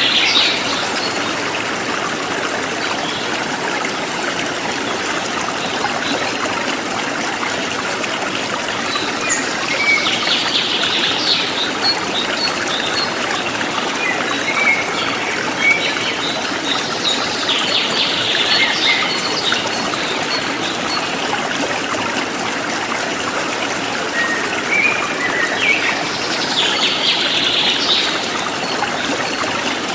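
Forest stream trickling and flowing steadily. A bird sings short bursts of high chirps that come back about every eight seconds, four times.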